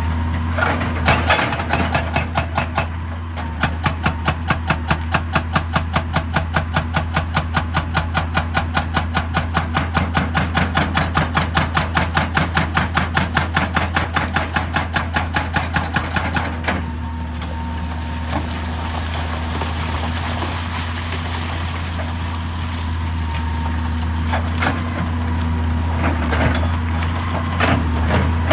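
Hydraulic rock breaker on a JCB excavator hammering rock in a rapid, even rhythm of about five blows a second, stopping a little past halfway. The excavator's diesel engine runs steadily underneath, with a few scattered knocks near the end.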